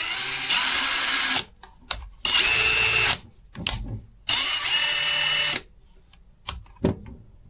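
Craftsman 20V RP brushless cordless impact driver run with no load in three short bursts, each a steady high motor whine, as its speed settings are tried. Short clicks come between the bursts.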